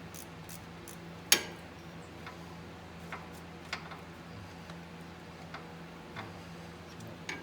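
Ratchet clicking in quick even strokes as a caliper bolt is worked loose, then a sharp metallic clank about a second in, followed by scattered lighter clicks and taps of tools on metal. A steady low hum runs underneath.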